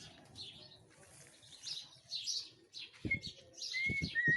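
Small songbirds chirping and twittering in quick, overlapping calls. Near the end a steady whistled note and a few low thumps come in.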